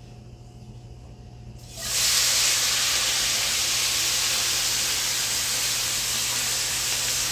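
Potato chunks hitting a skillet of hot oil: a loud frying sizzle starts suddenly about two seconds in and carries on steadily.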